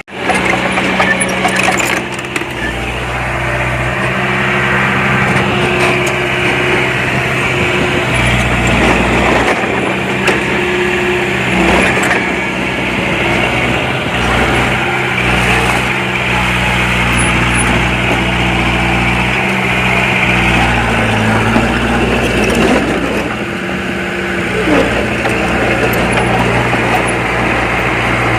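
Diesel engine of earthmoving machinery running under changing load, its pitch stepping up and down several times, with a few short knocks.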